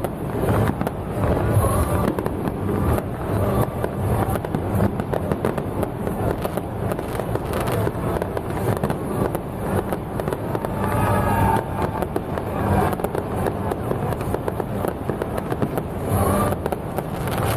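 Fireworks going off in a dense, continuous crackle of rapid bangs, with a steady low hum underneath.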